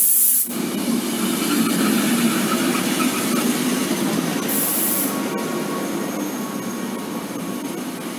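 Belgian passenger train's coaches rolling past a station platform: a steady rumble of wheels on the rails, with a brief high hiss at the start and another about halfway through.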